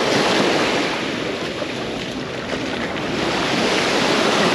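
Mediterranean waves breaking and washing up the beach, a steady surf rush that swells louder at the start and again from about three seconds in.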